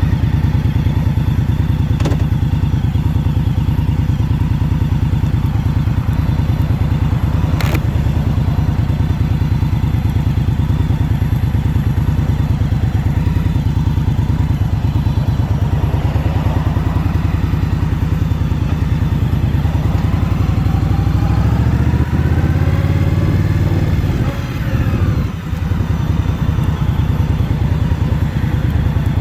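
2021 Indian Scout Bobber Twenty's V-twin engine running steadily under way. About two-thirds through its note climbs as the bike accelerates, then dips briefly, as at a gear change, before settling back to a steady run.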